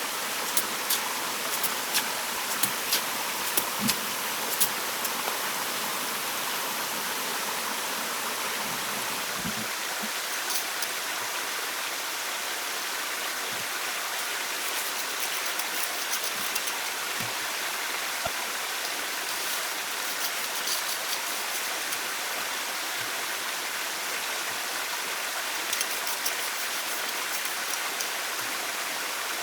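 Steady rushing of water, with scattered sharp ticks in the first few seconds.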